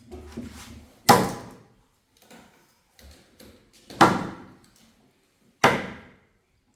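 Three loud, sharp knocks with quieter clatter between them. The second comes about three seconds after the first and the third about a second and a half later, each dying away over about half a second.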